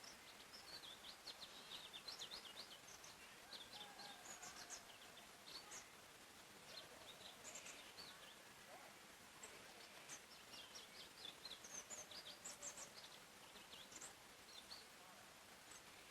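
Faint forest birdsong: bursts of quick, high, falling chirps from small songbirds, repeated in short phrases, over a soft steady background hiss.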